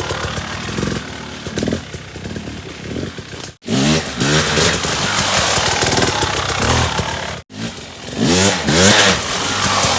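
Dirt bike engine revving and running, in three short clips cut together. The sound drops out abruptly about three and a half and seven and a half seconds in, and the revs climb sharply in pitch just after each cut.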